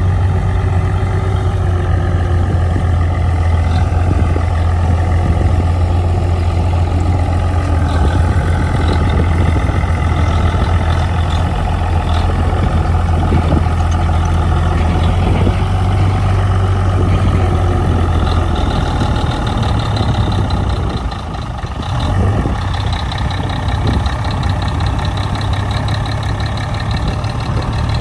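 Heavy diesel engine of earth-moving machinery running steadily with a deep hum, dipping briefly in loudness about three quarters of the way through.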